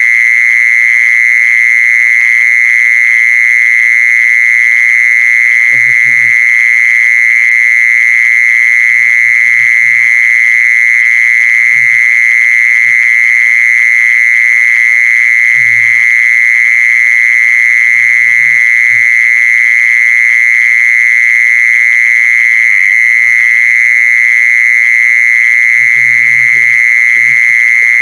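Loud, unbroken, steady high-pitched trill of a singing insect, the one called jisorn in Thai. Faint short low sounds come now and then beneath it.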